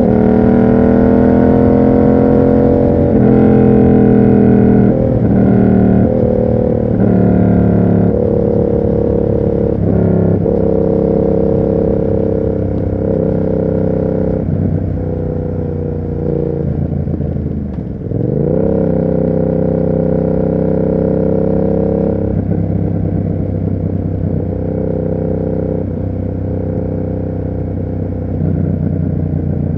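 Yamaha MT-07's 689 cc parallel-twin engine breathing through an SC Project exhaust, running under way. Its pitch steps up and down with gear changes and throttle, and about eighteen seconds in the revs drop sharply and climb back.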